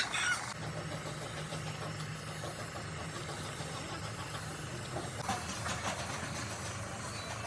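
Truck diesel engine idling steadily with a low, even hum.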